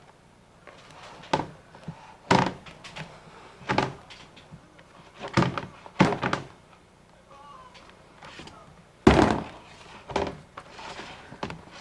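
A series of irregular knocks and thumps, about seven of them, a few seconds apart; the loudest comes about nine seconds in.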